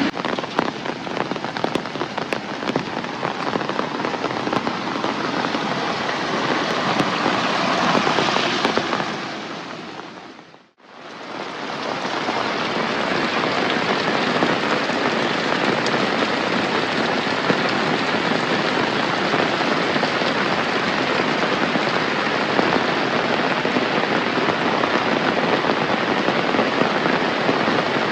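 Heavy rain pouring steadily, with sharp drop taps in the first several seconds. About ten seconds in, the sound fades down almost to nothing and quickly back up, then continues as an even downpour.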